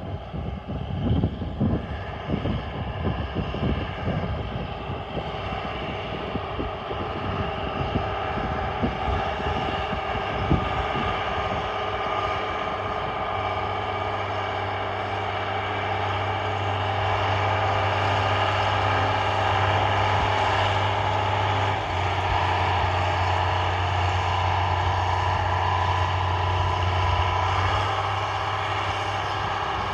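John Deere 4955 tractor's diesel engine running steadily, with irregular low thumps and buffeting in the first several seconds and a steady low hum that strengthens from about halfway through.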